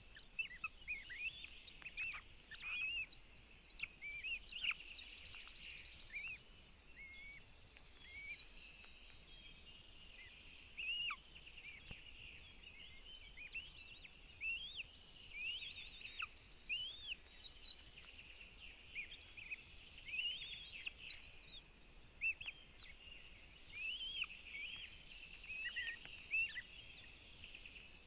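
Many short, high-pitched bird chirps and whistled notes, rising and falling, over a faint steady hiss. Twice, about five and sixteen seconds in, a brief buzzy trill joins them.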